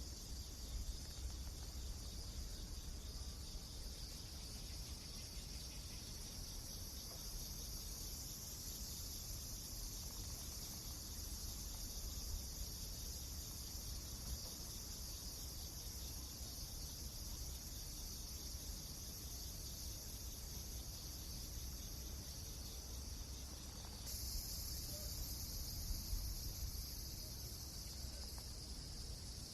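A steady, high-pitched insect chorus like crickets, over a low rumble; the chorus shifts abruptly about 24 seconds in, as at an edit in the track.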